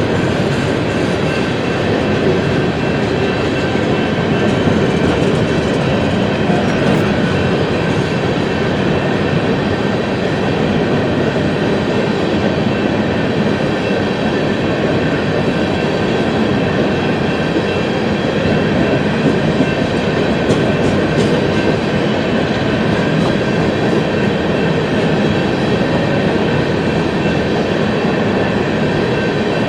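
BNSF coal train rolling past at steady speed, its wheels running on the rails in a continuous loud rumble, with faint clicking of the wheels over the rail joints.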